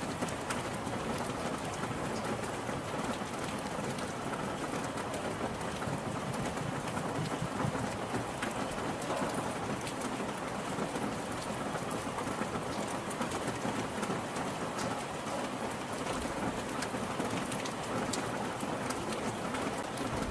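Steady rain falling and pattering on surfaces, with a dense scatter of individual drop ticks over an even hiss.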